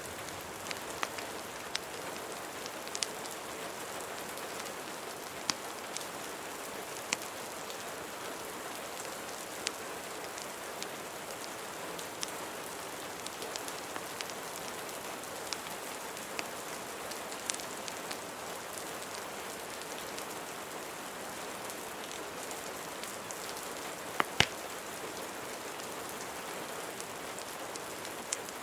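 Steady rain with scattered sharp crackles and pops from a wood fire, the loudest a quick pair about 24 seconds in.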